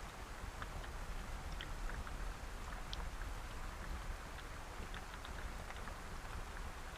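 Steady rainfall, with individual raindrops ticking here and there over an even hiss and a steady low rumble.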